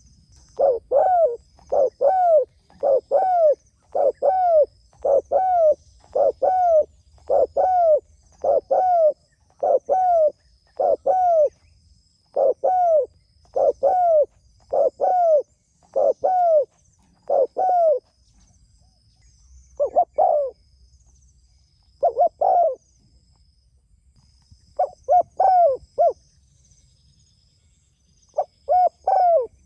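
Spotted dove (tekukur) cooing over and over, calling to other doves: a fast run of coos about one a second for the first eighteen seconds, then shorter phrases with pauses between them. Faint high chirping runs underneath.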